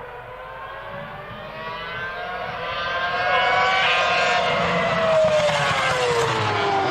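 Ferrari Formula 1 car engine screaming at high revs as the car approaches and passes, growing louder over the first few seconds, then its pitch dropping near the end as it goes by.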